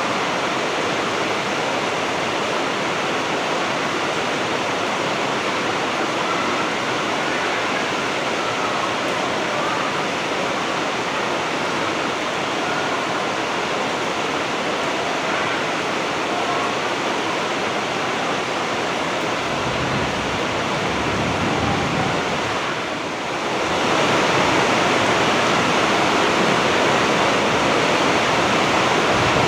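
Heavy rain falling in a steady, dense hiss. About three quarters of the way through, it dips briefly and then comes back a little louder and fuller.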